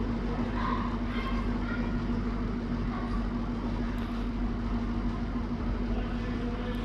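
A train standing at a station platform, giving a steady, even hum with one constant tone.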